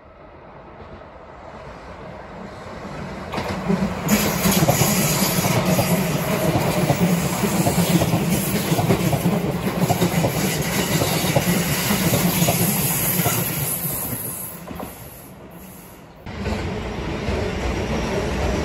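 Keio Line electric commuter train passing: its running noise builds over the first few seconds, holds steady and loud, then fades. About 16 seconds in, it gives way abruptly to another Keio train passing close by.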